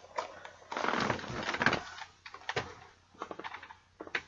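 Handling of a boxed Funko Pop figure's cardboard and plastic packaging: a rustle about a second in, then scattered clicks and taps.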